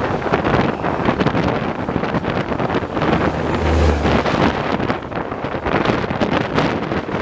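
Wind buffeting the microphone over the running noise of a moving passenger train, with a steady clatter of wheels on rail. A brief deep rumble comes about four seconds in.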